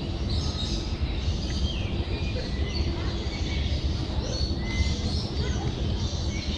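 Birds chirping, many short high chirps and quick rising and falling calls overlapping, over a steady low background rumble.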